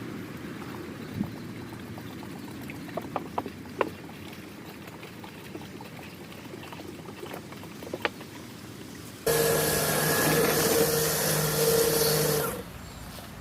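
Battery-powered Kärcher lithium-ion pressure washer triggered on for about three seconds near the end: a steady pump-motor hum under the hiss of the water spray, starting and stopping abruptly. Before that only faint background with a few light clicks.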